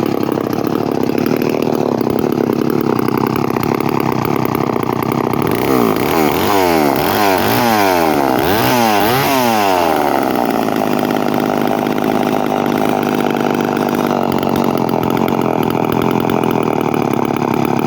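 Vintage 245A two-stroke chainsaw running steadily, with its throttle blipped up and down about five times in quick succession partway through before it settles back to a steady run.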